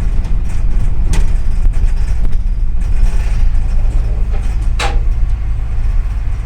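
Double-decker city bus driving, heard from inside the cabin: a steady low engine and road rumble, with a sharp knock or rattle about a second in and another just before five seconds.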